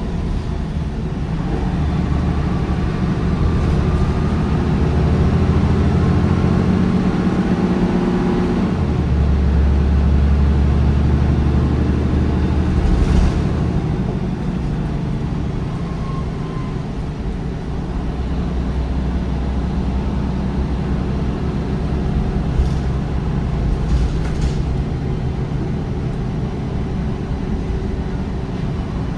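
MAN D1556LOH diesel engine of a MAN 19.360 bus, driving through a ZF Ecolife six-speed automatic, pulling under load with its note climbing. About nine seconds in the pitch drops sharply as the gearbox shifts up, and the engine then runs on more steadily at lower revs.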